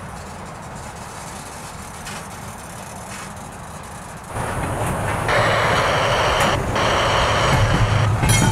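A CSX double-stack intermodal freight train's container cars rolling slowly along the rails with a steady rumble. The sound becomes suddenly much louder about four seconds in, with a dense rushing noise over the rumble.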